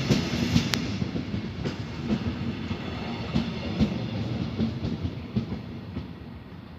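Train wheels rolling over rail joints and points, with irregular clacks over a rumble. The sound fades steadily as the train moves away.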